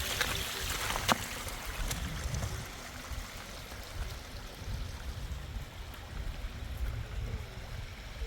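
Flowing water, like a running stream, with a low rumble underneath; a sharp click sounds about a second in.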